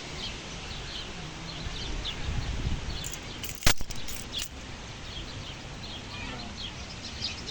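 Small birds chirping over and over, with a low rumble a couple of seconds in and a sharp click about three and a half seconds in, the loudest sound.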